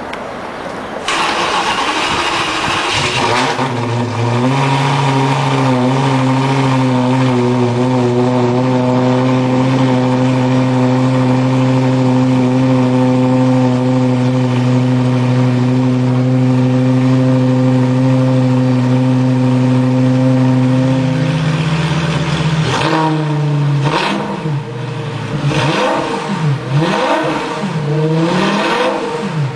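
Lamborghini Gallardo V10 starting about a second in with a loud flare, then settling into a steady fast idle that drops a little about two-thirds of the way through. In the last several seconds it is revved in a series of quick blips, each rising and falling.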